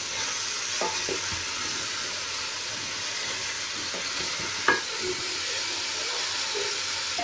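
Cauliflower and potato pieces sizzling steadily in hot oil and masala in a pot while being fried, with a wooden spoon stirring and knocking against the pot a few times, most clearly about a second in and near the middle.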